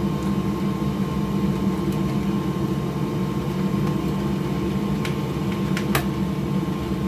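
Steady hum of a small electric motor or fan, with a few small clicks about five to six seconds in.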